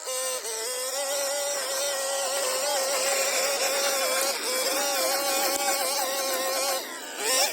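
Hedge trimmer running at speed, a steady motor whine whose pitch sags briefly a few times as it cuts, then drops and rises again near the end.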